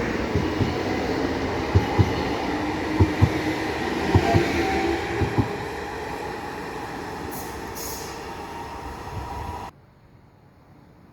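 Train rolling through a station: wheels knocking in pairs over rail joints and a faint wheel squeal over the rumble, fading as it goes, then cut off abruptly near the end, leaving a faint hiss.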